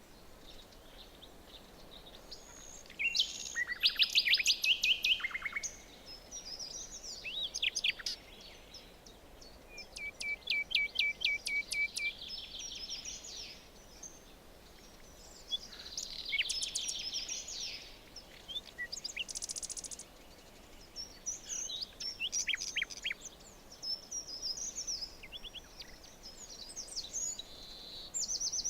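Songbirds singing in a forest, short varied phrases of high chirps and trills every few seconds. About ten seconds in, one bird gives a fast run of repeated notes lasting about two seconds. Under the song there is a faint steady hiss of background ambience.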